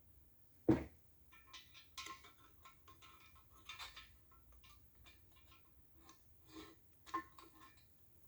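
Small metal parts being handled: one sharp knock about a second in, then a run of faint, irregular clicks and light metallic clinks.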